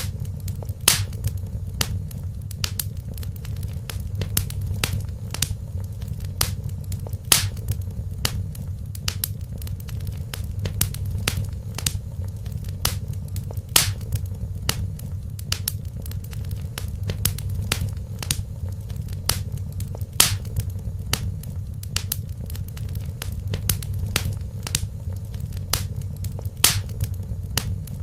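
Wood fire crackling: irregular sharp pops and snaps, several of them louder, over a steady low rumble of the burning fire.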